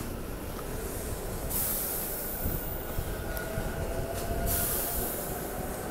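SEPTA Regional Rail electric train running alongside the platform, a steady rumble of wheels and running gear on the rails with a faint whine in the second half. Two bursts of hiss come about a second and a half in and again near the end.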